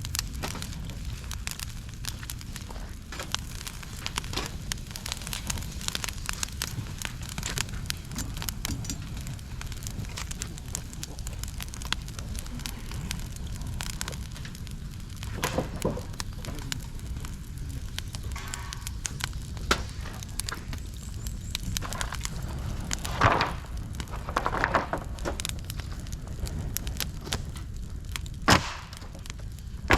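Dry bamboo and twigs burning in a campfire stand, crackling continuously with many sharp pops over a low steady rumble; a few louder cracks come in the second half.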